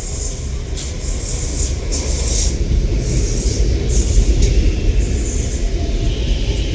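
CSR electric multiple unit train running on the track: a loud steady low rumble with irregular bursts of high hiss.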